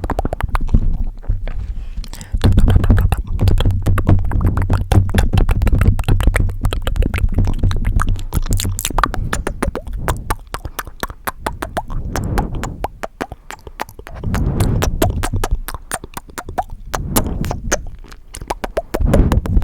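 Fast, aggressive ASMR tapping and scratching close on a highly sensitive microphone: many sharp clicks a second, with a low rumble from handling the mic during the first half.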